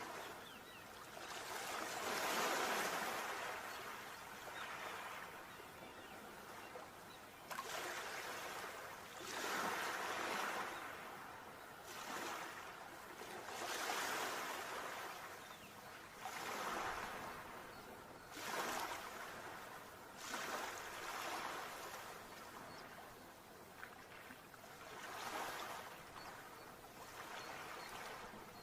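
Sea waves washing in, a rushing noise that swells and fades in repeated surges every few seconds.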